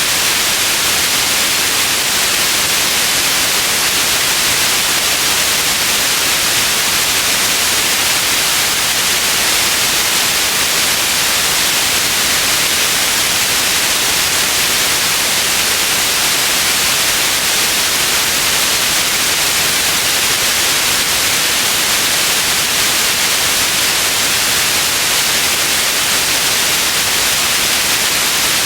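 Steady white noise: an even, unchanging hiss, bright and weighted toward the high end.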